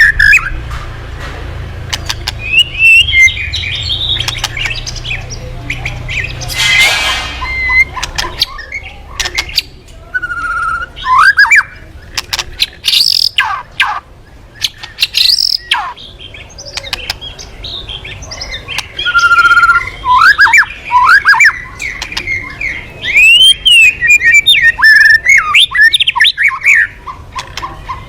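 A murai songbird singing a loud, varied song: quick rising and falling whistles mixed with sharp clicking and harsh scolding notes, delivered in bursts, as in a full-song 'gacor' lure recording. A low hum sits under the first several seconds.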